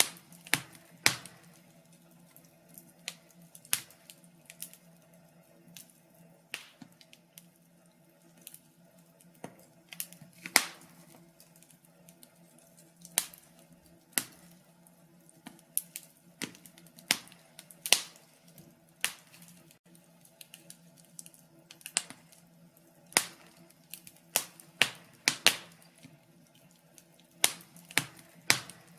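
Wood fire crackling in a fireplace: irregular sharp pops and snaps, some loud and some faint, coming singly and in quick clusters, over a faint steady low hum.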